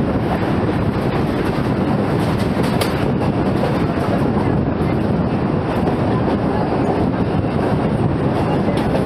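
Mumbai suburban local train (electric multiple unit) running at speed, heard from its open doorway: the steady, loud running noise of the wheels on the rails.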